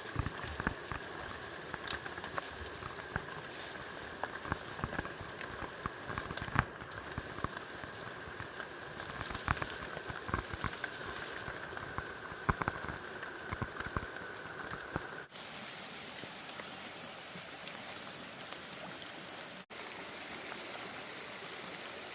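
Flowing stream water with a steady rush, overlaid by many irregular short knocks and clicks through the first fifteen seconds or so, and a thin steady high tone over the same stretch.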